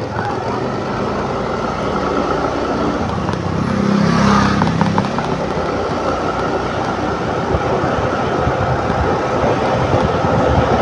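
Motor scooter engine running steadily on the move, with road noise and passing traffic; the sound swells louder about four seconds in.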